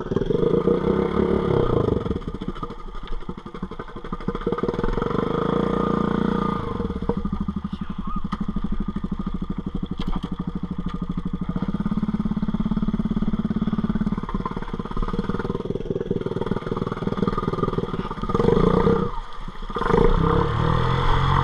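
Four-wheel-drive ATV engine running under a rider, revving up and easing off. It drops away sharply for about a second near the end, then picks back up.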